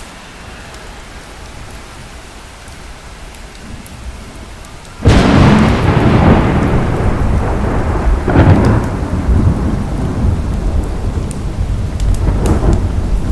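Steady rain, then a sudden loud thunderclap about five seconds in that rolls on as rumbling thunder, swelling again twice. Faint crackles of a wood fire tick through the rain.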